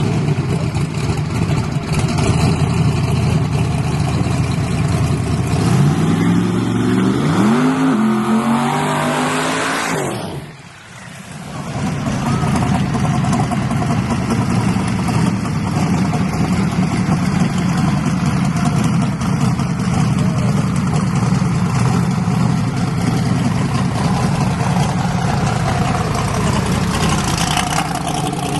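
Loud drag-racing engines running. About six seconds in, an engine revs up with rising pitch; around ten seconds in the sound cuts off abruptly, then steady engine noise resumes.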